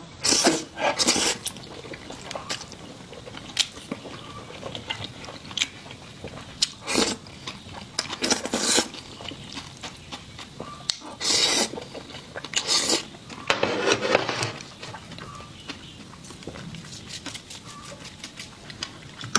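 Close-up eating sounds: irregular crunchy bites and chewing, with sharp clicks of cutlery against dishes.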